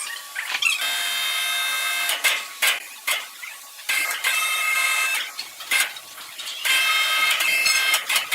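A sawmill saw cutting wood in three passes, each a steady high-pitched whine lasting about a second and a half, with sharp knocks and clatter in the gaps between cuts.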